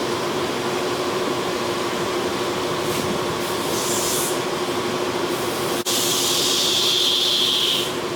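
Steady machine noise with a constant hum and a hiss that comes and goes. It drops out for an instant almost six seconds in.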